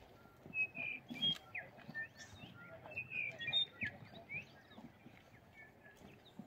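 Birdsong: a songbird giving quick chirps and short whistled slides, busiest in the first four seconds or so, with scattered light knocks underneath.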